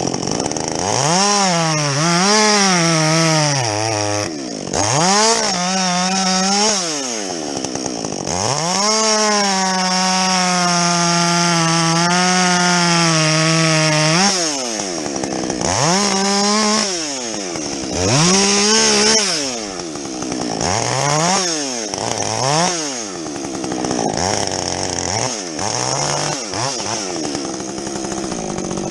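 Husqvarna 562XP two-stroke chainsaw with a modified muffler, revving up and cutting through logs again and again. Its pitch sags under load in a long cut about 9 to 14 seconds in, then rises and falls through several shorter cuts.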